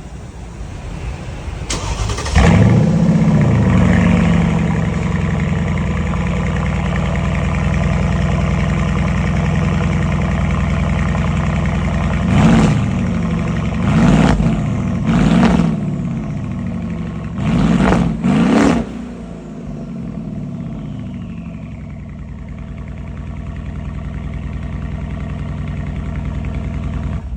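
Mercedes-AMG M157 twin-turbo V8 running uncorked, with the exhaust system removed. It starts about two seconds in with a flare of revs and settles to an idle. It is then blipped five times in quick succession before dropping back to idle.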